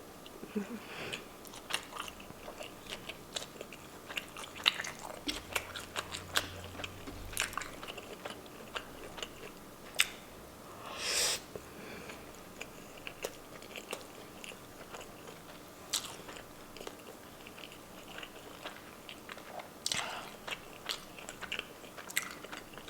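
A person biting and chewing pork tocino close to the microphone, with many small wet clicks and smacks. A louder burst comes about eleven seconds in.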